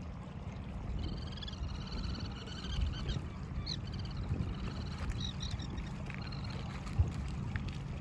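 Birds calling in rapid, chattering trills of high notes for a few seconds, over a steady low rumble. A single sharp knock about seven seconds in.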